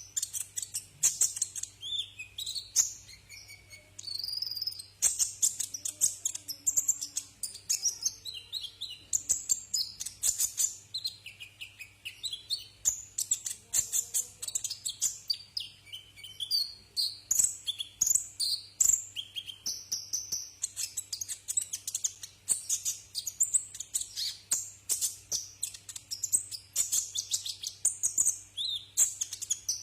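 Sunbird (the 'kolibri ninja' of Indonesian bird-keepers) singing a fast, high-pitched stream of sharp chirps and short trills, almost without pause.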